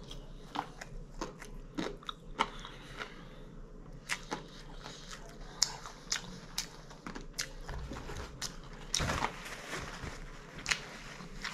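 A person chewing crunchy food close to the microphone, with crisp crunches roughly every half second and a louder crunching spell about nine seconds in.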